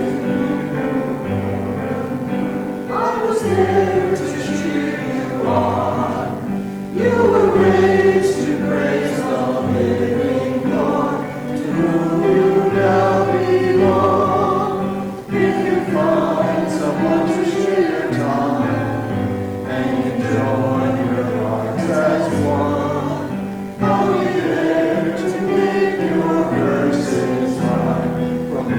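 Congregation singing a hymn together in phrases of held notes, with piano accompaniment.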